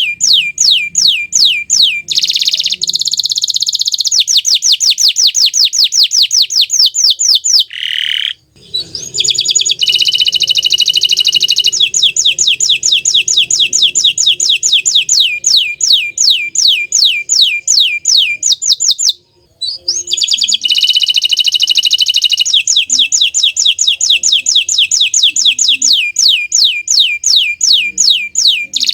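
Domestic canary (bottle-green variety) singing: long runs of quick, high, down-slurred whistled notes, about five a second, broken by faster buzzing trills. The song stops briefly twice, about a third and two-thirds of the way through.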